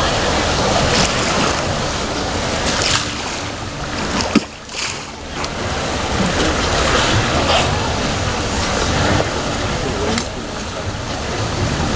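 Steady wind and water noise on a boat, with a single sharp click about four seconds in.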